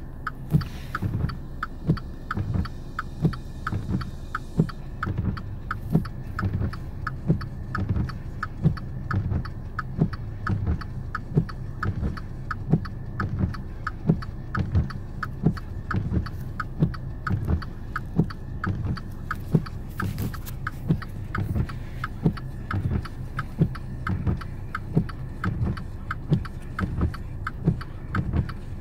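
Car engine running steadily under a regular ticking or thumping, about two beats a second.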